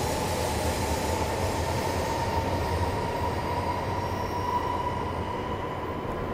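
E5 series Shinkansen departing on a neighbouring track: a steady rushing run with a thin whine that creeps slightly up in pitch while the sound gradually fades as the train pulls away.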